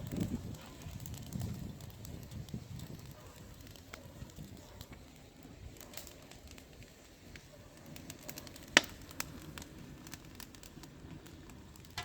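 Fire crackling in the newly built garden fireplace, with scattered sharp pops and one louder pop about nine seconds in.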